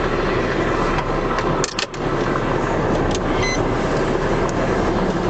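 Steady road and engine noise of a car being driven, with a few brief clicks about two seconds in.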